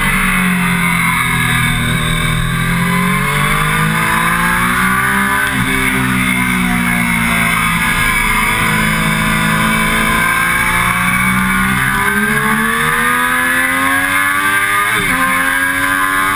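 Triumph Daytona 675's three-cylinder engine under hard track riding. Its pitch falls as the bike slows, then climbs and drops again through the corners, with a quick gear change about a second before the end. Wind rushes over the fairing throughout.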